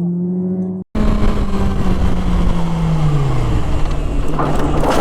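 Motorcycle engine running at steady revs, then a brief dropout in the sound about a second in. After it comes loud rushing noise, with the engine note falling steadily as the revs drop.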